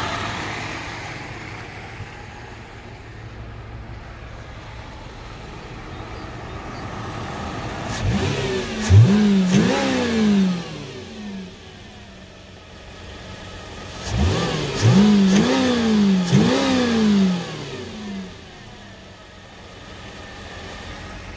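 Subaru H6 flat-six engine idling, then revved in two short rounds of quick blips, about eight and fourteen seconds in, each time the revs rising sharply and dropping back to idle.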